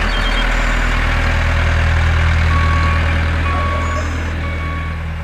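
Tractor engine running steadily at low revs, a deep even rumble.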